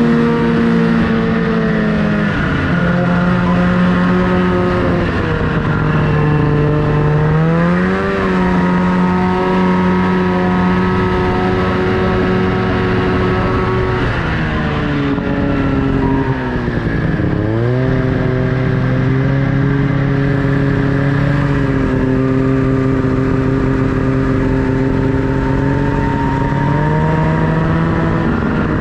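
Snowmobile engine running under throttle, its pitch mostly steady with changes of speed: a drop about two seconds in, a climb around eight seconds, a dip that bottoms out around seventeen seconds, and a rise again near the end.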